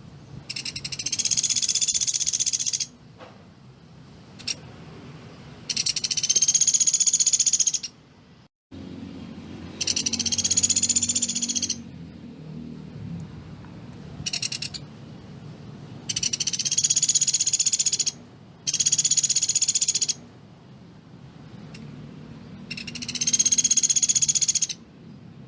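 Pelatuk beras woodpecker giving its rapid rattling trill, the 'tembakan rapat' used as a master song for cage birds. It comes in bursts of about two seconds, seven times, with pauses of a second or two between.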